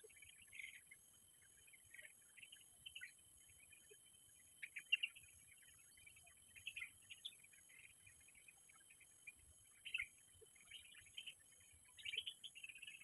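Faint, scattered short bird chirps, one a little louder about five seconds in, over a steady high-pitched insect drone.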